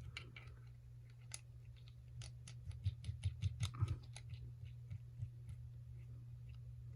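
Small metal clicks and taps from a trick bolt puzzle being handled and turned, with a quick run of about ten clicks between two and four seconds in. A faint steady low hum lies under them.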